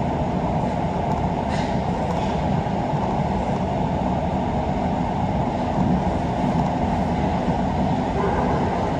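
Kita-Osaka Kyuko 9000-series electric train running steadily, a constant low rumble of wheels on rail and running gear heard from inside the front car.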